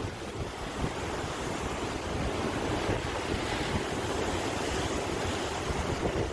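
Sea waves washing in continuously, with wind buffeting the microphone.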